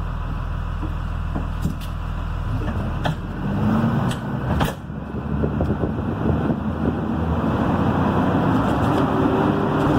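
School bus Cummins B6.7 diesel engine running while driving. The engine picks up speed from about three seconds in and grows steadily louder, with road and tyre noise and a few sharp knocks from the bus body.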